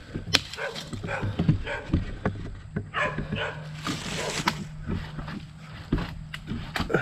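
Dog whining and barking, with footsteps and twigs and sticks cracking throughout.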